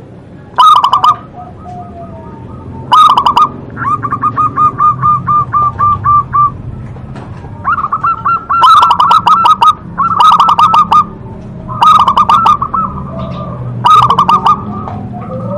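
Zebra dove (perkutut) cooing: about six phrases of quick, evenly repeated coos, each opening with a loud note, with one longer run of rapid even coos about four seconds in.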